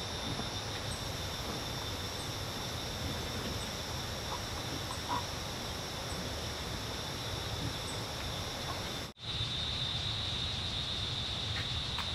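Outdoor countryside ambience: a steady high insect drone with faint, regularly repeating high chirps. The sound drops out for an instant about nine seconds in.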